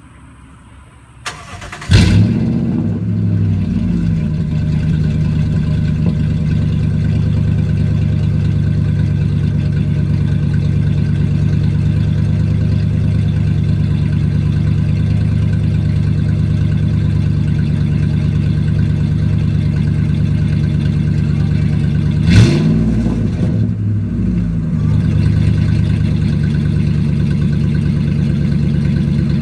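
Straight-piped 2008 Dodge Ram's 4.7-litre V8 is cranked and fires about two seconds in with a loud flare, then settles into a steady idle. Near the end it is revved once, the pitch rising and falling, before dropping back to idle.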